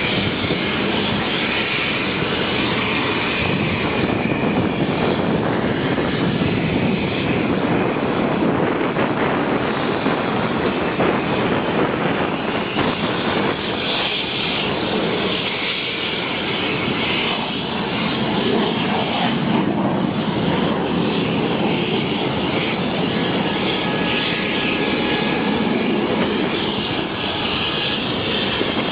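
Steady rushing jet noise from the L-15 twin-turbofan advanced trainer in flight, holding level without a clear rise or fall.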